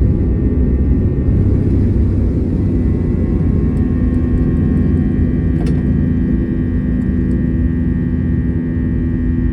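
IAE V2500 turbofan engines of an Airbus A321 at high thrust, heard from inside the cabin: a loud, steady rumble with a steady engine whine above it.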